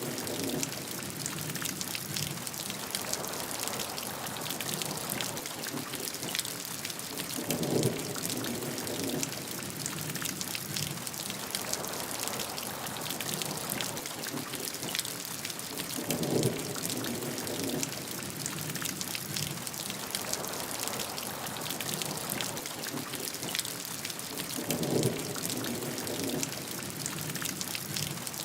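Steady rainfall, a dense hiss of drops with fine individual drop ticks. A short, lower-pitched swell comes back regularly, about every eight seconds.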